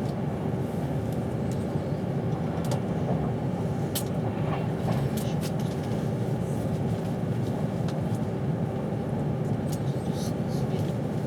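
Steady low rumble of a passenger train running at speed, heard from inside the carriage, with a faint steady hum and scattered light ticks.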